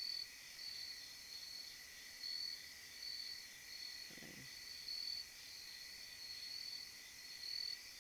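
Night insect chorus: a steady high drone with a higher chirp pulsing roughly every half second.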